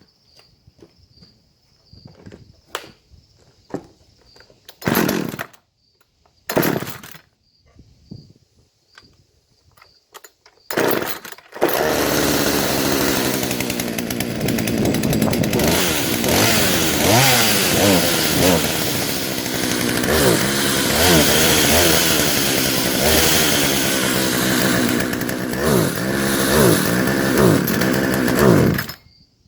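Poulan 220 Pro 38cc two-stroke chainsaw. After some light clicks and a few short loud bursts, it starts about twelve seconds in and runs loud, its pitch rising and falling again and again as the throttle is worked. It cuts off suddenly near the end.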